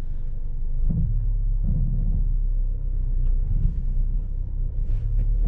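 Low, steady rumble with two brief swells, about one and two seconds in.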